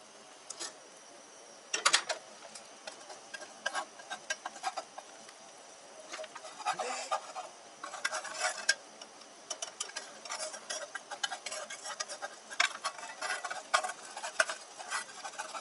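Utensils clinking, tapping and scraping against dishes in irregular short strokes, busier in the second half.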